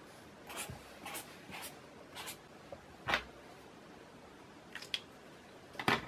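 Small handling noises: about eight irregular taps and rustles, the loudest a little past three seconds in.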